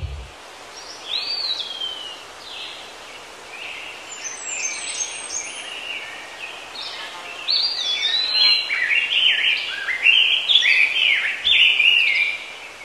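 Birds chirping and singing: short whistled notes, some sliding downward, which grow busier and louder about halfway through.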